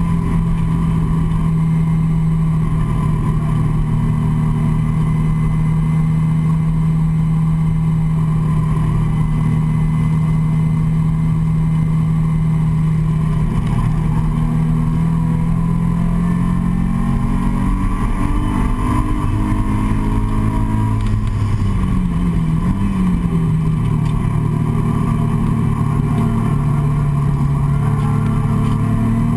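Nissan 350Z's 3.5-litre V6 engine heard from inside the cabin, running hard at a steady pitch on a track lap. About three-quarters of the way through, the pitch dips sharply as the car slows, then the engine settles at a lower pitch.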